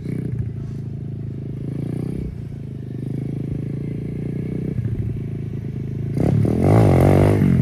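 Pit bike engine running at a steady low pitch, then revved up and down, louder, from about six seconds in.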